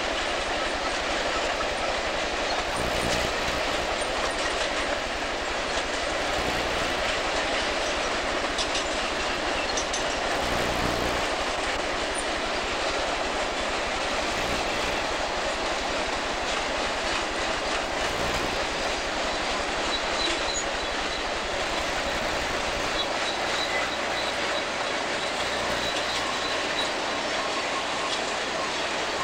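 Freight train cars rolling past: a steady rumble of steel wheels on rail with clacking over the joints and a heavier low thump every few seconds.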